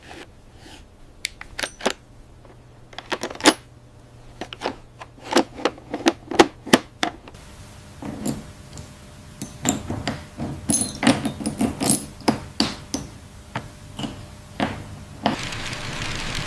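An irregular series of light clicks and knocks of small hard objects, a few with a short metallic ring, sparse at first and coming thicker in the middle. Near the end a steady rushing noise sets in.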